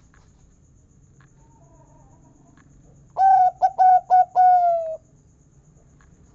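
Zebra dove (perkutut) cooing one song phrase about three seconds in: an opening note, three short clipped notes, then a long, slightly falling final 'kung' note, about two seconds in all.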